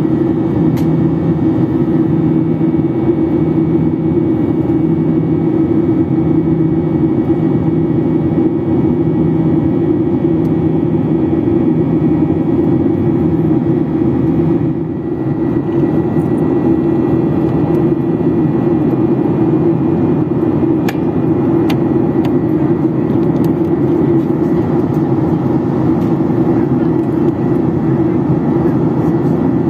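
Steady roar of a Boeing 737-800 cabin in flight: CFM56-7B engine noise and airflow, with a low hum and a slow pulsing drone. It dips briefly about halfway through, and a few faint clicks come later.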